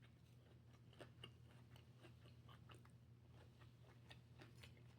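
Faint chewing close to the microphone, with small irregular mouth clicks and soft crunches, over a low steady hum.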